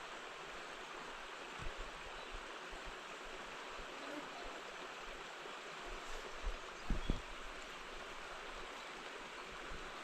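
Steady rushing of running water, with a few low thumps about two seconds in and around seven seconds.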